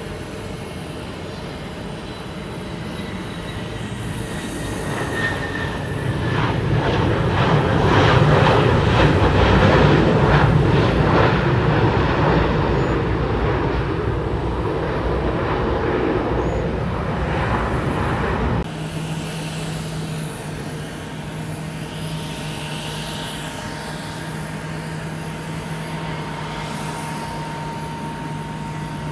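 Twin rear-mounted turbofan engines of a Boeing 717-200 jet airliner passing, swelling to a loud peak about a third of the way in and slowly easing off. After an abrupt cut near two-thirds of the way in, a steadier, quieter jet engine sound with a low steady hum from an Airbus A320.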